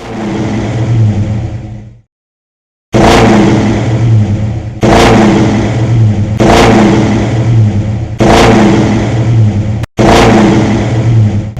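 Car engine revving hard and running loud, heard in several pieces that start abruptly, with a brief break to silence about two seconds in.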